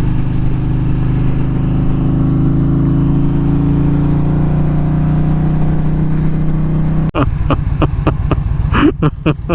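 Motorcycle engine running through a Bassani exhaust at steady cruise, its note sinking slowly as it eases off. About seven seconds in the sound cuts abruptly to a choppier one with quick, sharp clicks.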